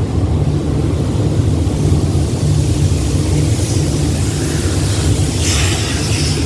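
Train running across an old steel truss bridge, heard from an open carriage window: a steady low rumble, with a brief rushing hiss about five and a half seconds in.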